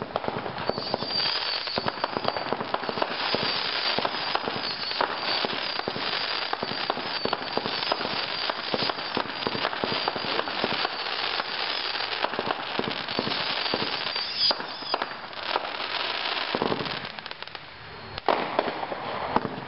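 Brothers Air Boss 37-shot fireworks cake firing: a dense, rapid run of shots and crackling that thins out briefly near the end before a few last bangs.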